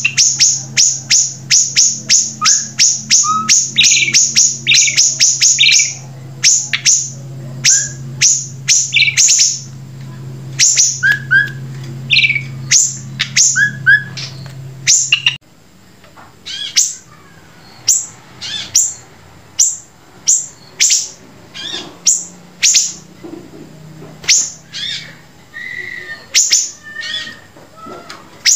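A songbird singing a long, loud run of sharp, high notes that each sweep steeply downward, fast and close together at first, then more spaced out. A low steady hum runs underneath and stops about halfway through.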